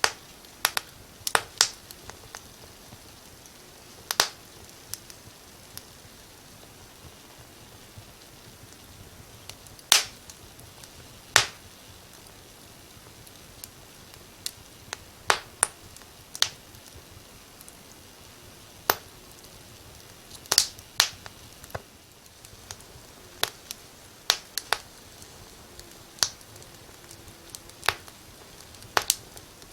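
Wood fire crackling: sharp, irregular pops and snaps over a faint steady hiss, sometimes two or three close together.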